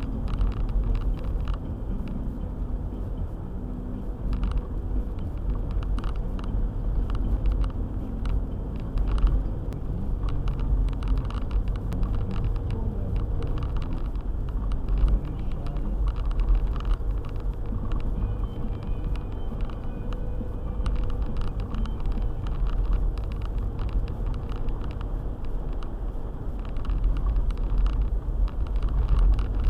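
Four-wheel-drive car driving on a snowy road: a steady low rumble of engine and tyres, with frequent faint clicks and knocks.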